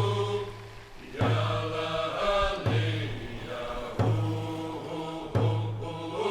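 Group of voices chanting a Northwest Coast song to a slow, steady drum beat, four strokes about a second and a half apart.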